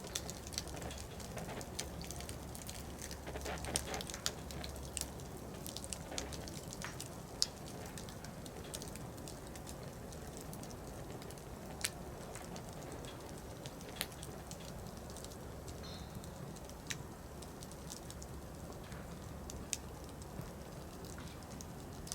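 Wood fire burning: irregular sharp crackles and pops from the firewood over a low steady hiss. The pops come more often in the first few seconds, then thin out to single pops every second or two.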